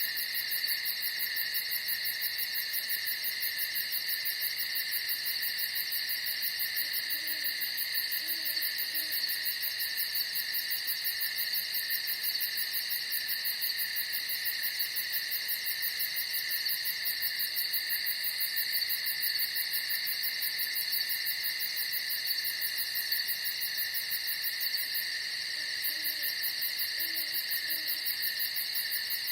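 Night insect chorus, a steady high trilling of crickets, with an owl hooting low and faint in two short series, about a quarter of the way in and again near the end.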